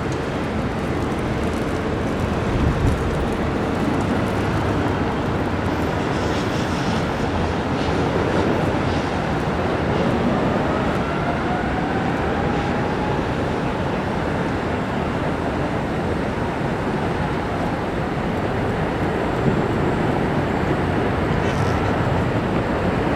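Jet airliner engine roar, steady throughout, with a faint sliding whine about ten seconds in.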